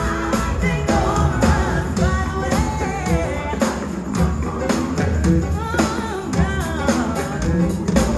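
Live gospel music: voices singing over a band with a steady beat.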